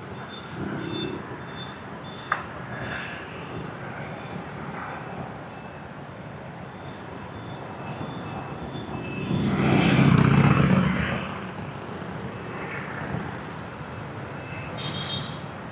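Dense motorbike traffic, heard from a moving motorbike, with a steady mix of engines and tyres. One vehicle passes close and loud about ten seconds in, and there is a sharp click a couple of seconds in.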